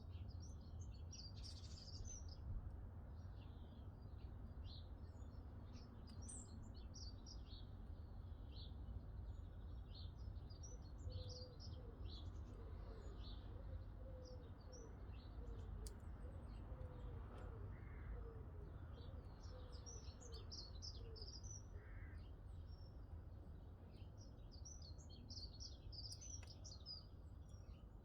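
Small wild birds chirping and singing faintly in many short, high notes, with a lower run of short notes through the middle and a steady low rumble underneath.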